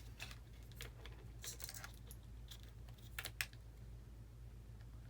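Light clicks and small plastic rattles of RC wire-harness plugs and parts being handled, in irregular clusters with the sharpest click a little past three seconds in, over a faint steady low hum.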